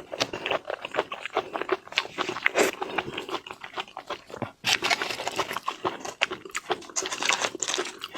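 Close-up mouth sounds of someone eating raw marinated seafood: wet chewing and lip-smacking, made of many small clicks. There is a short break about four and a half seconds in, then a busier stretch.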